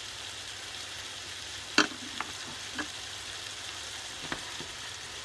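Onions and sweet peppers sizzling steadily as they fry in oil in a pan, with a few sharp clicks and knocks, the loudest about two seconds in.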